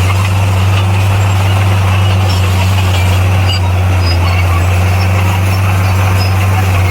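Bulldozer's heavy diesel engine running steadily at a constant pitch, with a deep low hum.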